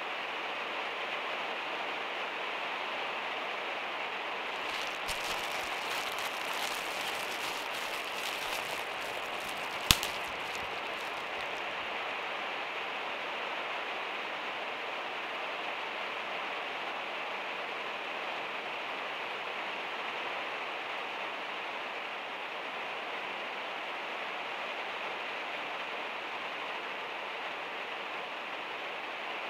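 Steady rain on a van's metal roof. A plastic bag crinkles for several seconds starting about five seconds in, and one sharp click comes near ten seconds.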